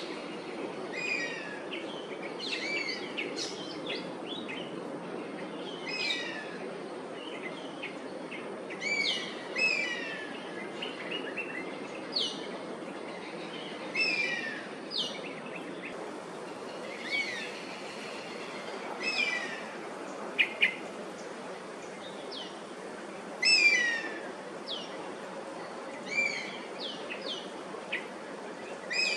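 Oriental honey buzzard calling over and over, high whistled calls that fall in pitch, one every two to three seconds, over a steady low background hum. There are two sharp clicks about two-thirds of the way in.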